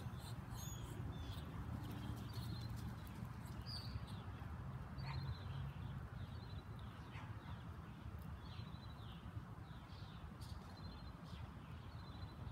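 A bird chirping repeatedly outdoors, short high trilled notes about once a second, over a steady low rumble of outdoor background noise.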